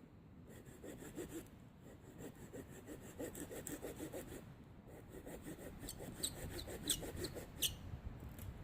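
A hand saw cutting through a branch of wood with steady back-and-forth strokes, about two to three a second, as the cut nears completion. A few sharp cracks sound near the end.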